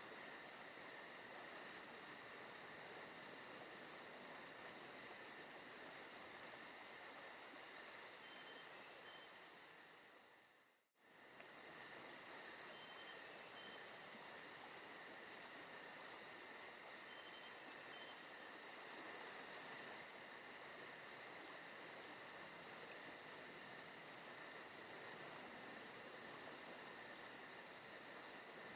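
Forest ambience: a steady chorus of chirping insects with a fast, pulsing high trill. About eleven seconds in it fades out to silence for a moment and comes straight back, like a looped ambience track restarting.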